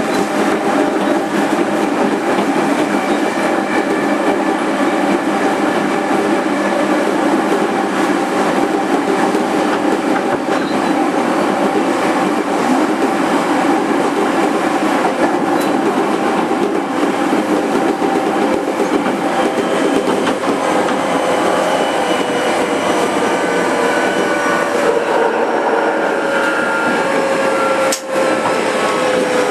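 Running noise inside a JR 205 series 5000-subseries electric motor car: steady wheel-on-rail noise with a hum from the traction motors. In the last several seconds several motor tones slowly fall in pitch as the train slows.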